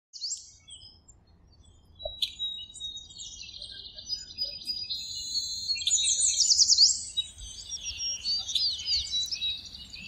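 Songbirds chirping and trilling, with quick sweeping whistles over one another, loudest about six to seven seconds in.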